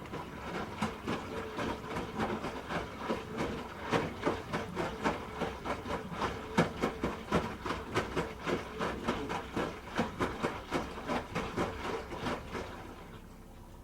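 Hoover H-Wash 300 Plus front-loading washing machine with its drum turning: a steady motor hum under repeated knocks, about three a second, as the wet load tumbles. It starts abruptly and winds down near the end as the drum stops.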